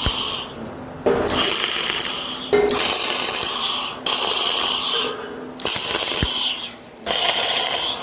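Electric arc welding in a run of short tack welds on the steel frame of a hydraulic log splitter: about five crackling, hissing bursts of one to one and a half seconds each, with brief pauses between.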